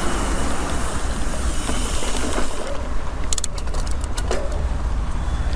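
Wind rumbling on the microphone while riding a bicycle, with a steady hiss of road or traffic noise that drops away about halfway through. A quick run of sharp clicks follows.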